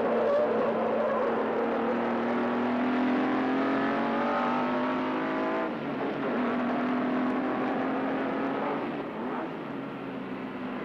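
Sports car engine accelerating hard: the engine note climbs, breaks at a gear change about halfway through, then picks up again.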